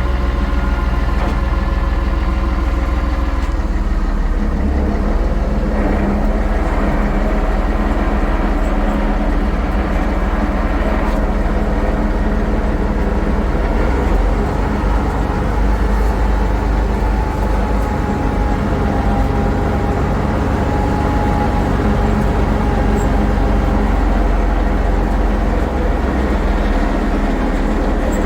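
International 1066 tractor's six-cylinder turbo diesel engine running steadily while skidding a heavy log. A faint thin whine drifts slightly in pitch over the engine note.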